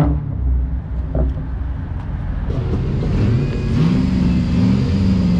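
A car engine running, with a low rumble underneath. About three seconds in its pitch climbs and then holds higher, unsteadily, as if the engine is revved.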